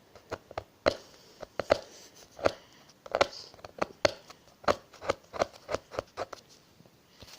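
A knife scraping the heads off matchsticks: a run of short, sharp scrapes and clicks, about two or three a second, irregular.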